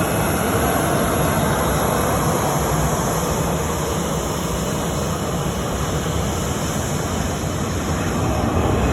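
Steady jet airliner engine noise, a broad rushing sound that eases a little midway and builds again near the end.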